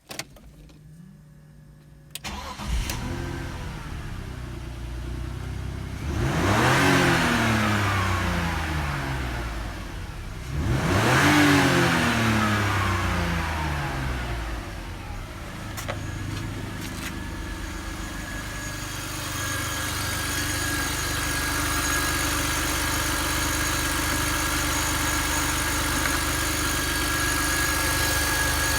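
BMW M52TUB25 2.5-litre inline-six engine started about three seconds in, then running at idle. It is revved twice in short blips that fall back to idle, then idles steadily.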